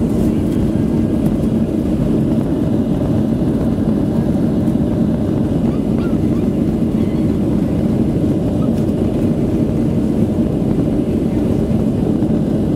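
Boeing 737-600's jet engines at take-off power heard inside the passenger cabin: a loud, steady rumble with a low hum, unchanging throughout.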